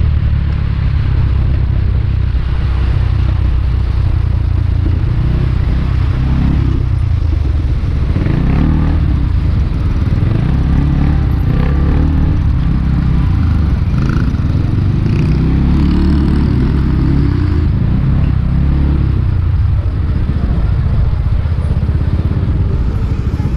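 Small motorbike engine running steadily under way, its pitch rising and falling a little in the middle as the speed changes, with road and wind noise.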